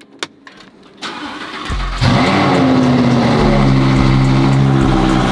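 Lamborghini Huracán's 5.2-litre V10 being started: a click, then the starter cranks for about a second before the engine catches about 2 s in. It flares into a loud, high idle that then drops and settles.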